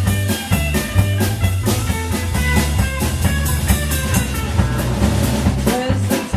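Live blues band playing, with electric guitar, bass and drum kit keeping a steady beat.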